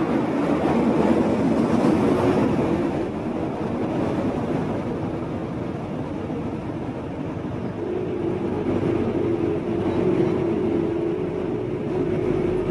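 Motorbike riding through city traffic: engine running and road rumble, with a steady hum joining about eight seconds in.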